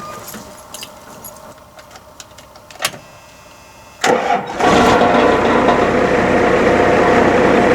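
A 1989 Dodge D350's 12-valve Cummins turbo diesel is started: a sharp click about three seconds in, then about four seconds in it cranks and fires right up and settles into a steady idle. It starts without trouble after new battery work, a sign the earlier no-restart fault is cured.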